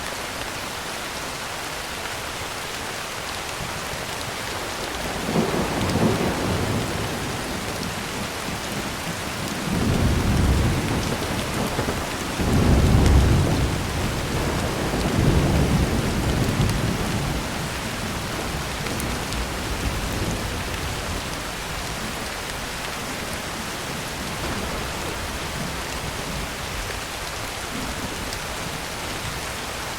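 Heavy rain falling steadily on a tin roof, with thunder rumbling through it: a roll about five seconds in, then longer rolls from about ten to seventeen seconds, the loudest around thirteen seconds in.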